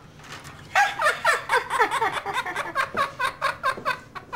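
A pet bird giving a fast run of short, laugh-like calls, each falling in pitch, about four to five a second for some three seconds.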